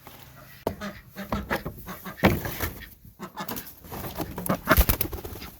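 Chickens clucking in the coop, over knocks and clatter as the coop is opened. There is a loud knock about two seconds in and another near the end.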